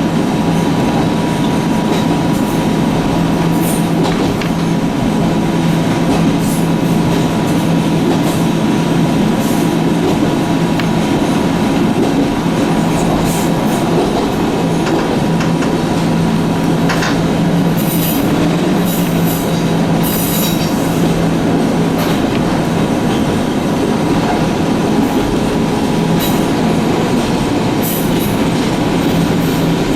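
Echizen Railway electric train running along the line, heard from on board: a steady rumble of wheels and running gear with a constant low hum and a thin steady tone above it. About two-thirds of the way in comes a short run of sharp clicks and squeaks from the wheels on the rails.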